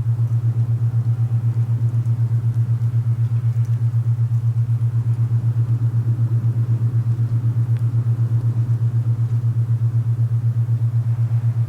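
Alpha binaural beat: a loud, steady low tone made of two close-pitched tones, pulsing rapidly and evenly. It sits over a soft hiss of wind.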